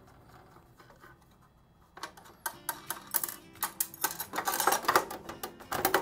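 Screws and the stainless steel front panel of a Rancilio Silvia Pro espresso machine clicking, clinking and rattling as the panel's screws are taken out and the panel is worked loose. A quick, uneven run of metallic clicks and knocks starts about two seconds in.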